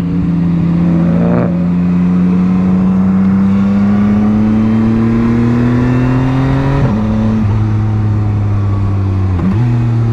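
Motorcycle engine under way, its pitch climbing steadily for about seven seconds as it accelerates, then dropping suddenly and holding steady, with one more brief dip near the end.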